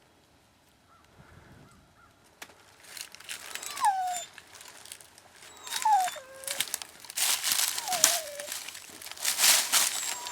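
Dry brush and leaves crunching and rustling, starting a couple of seconds in and growing louder, with a German shorthaired pointer giving three short, falling whines.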